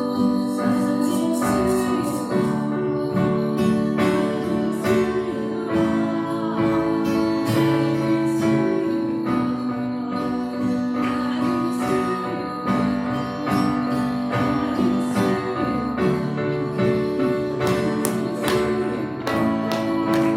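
Church worship music led by a strummed acoustic guitar, with long held notes over it.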